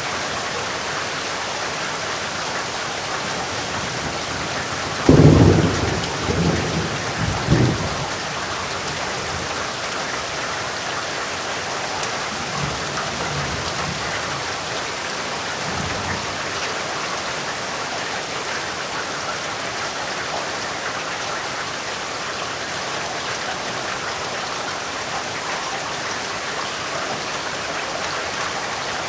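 Steady rain falling. About five seconds in, a sudden loud clap of thunder rolls on in rumbles for a few seconds, and a fainter rumble of thunder follows a few seconds later.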